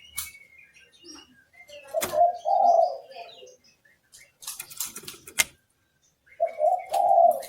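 Oriental magpie-robin (kacer) giving short, sharp high chirps and clicks. Twice, a lower, louder cooing call comes in, lasting about a second each time.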